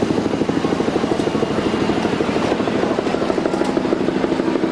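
Helicopter rotor chopping with a rapid, even beat that holds steady throughout.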